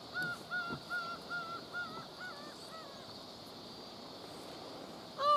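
A bird calling: a run of short notes that each rise and fall, about two to three a second, fading away, then one louder call of the same shape at the end.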